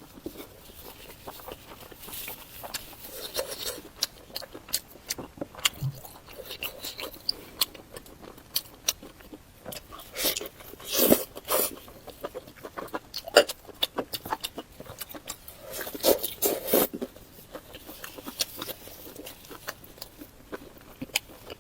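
Close-miked eating sounds of a person chewing food: wet mouth clicks and smacks, with louder bursts of chewing about ten seconds in and again about sixteen seconds in.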